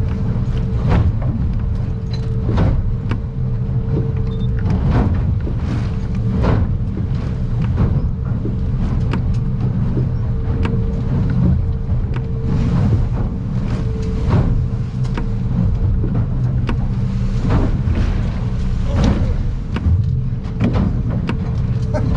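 An outboard-powered aluminium boat under way in rough water: the motor drones steadily while the hull knocks and slaps against the swells irregularly, every second or two.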